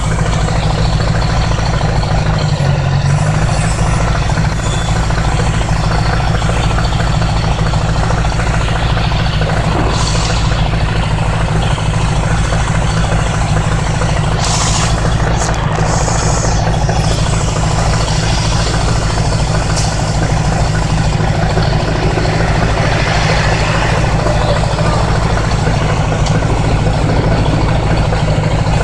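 1980s Honda Gold Wing motorcycle riding at a steady pace, its engine droning under a constant rush of wind and road noise, with a few brief swells about ten and fifteen seconds in.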